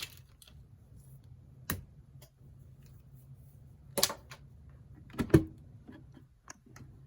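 Power cord and plug of a mug press being handled: a few separate light plastic clicks and knocks, the loudest about four and five seconds in, over a faint steady low hum.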